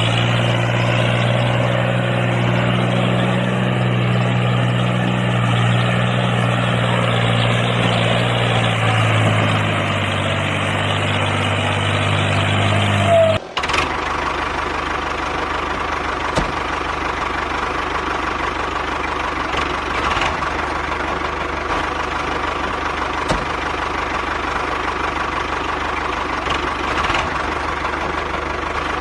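Small electric motors of a homemade model tractor and threshing machine running: a steady low hum, then an abrupt switch about halfway through to a higher, noisier whir with a faint steady whine and a few light knocks.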